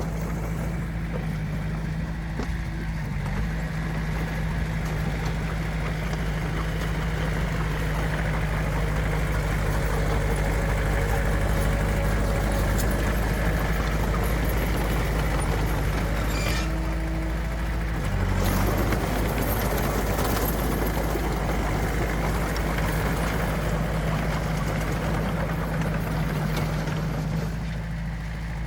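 Diesel engine of heavy earthmoving machinery running steadily, a low even drone with a brief change in the noise about two-thirds of the way through.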